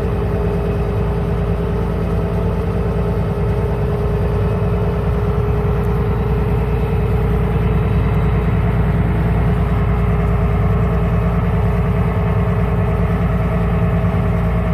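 Case 5240 tractor's diesel engine running steadily, with an even drone and no change in pitch, while it drags a set of peat spoons across the bog.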